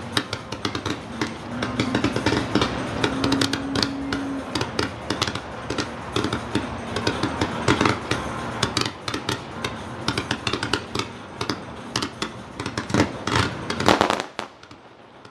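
Fireworks display: rapid crackling and banging bursts in quick succession. A loud cluster of bangs comes near the end, then the noise drops off suddenly.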